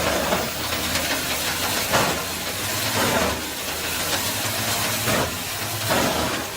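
Compact wood chipper-shredder running while branches are fed in, a steady hissing mechanical noise with crunching surges every second or two as the blades shred the wood.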